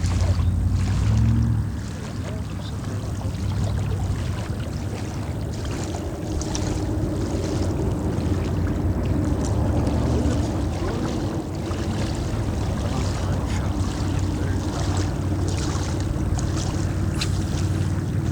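Steady rush of moving water with wind buffeting the microphone, over a steady low hum that is a little louder for the first two seconds.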